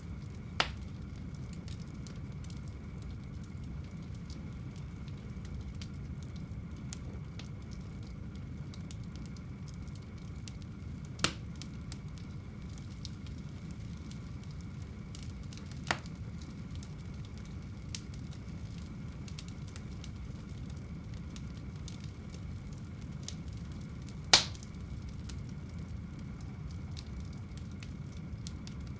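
Wood fire burning in a home fireplace: a steady low rush of flames, with about five sharp pops from the burning logs, the loudest about 24 seconds in.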